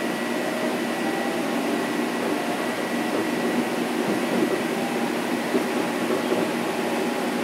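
Steady running noise heard inside a Metro-North M7 electric multiple unit in motion: wheel and track rumble with faint whining tones from its IGBT inverter and AC traction motors. A high tone fades about halfway through.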